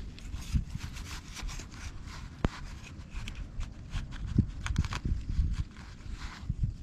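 Irregular rubbing and scraping with scattered light knocks and clicks, as of materials being handled by hand. There is a sharp click about two and a half seconds in and a dull thump a couple of seconds later.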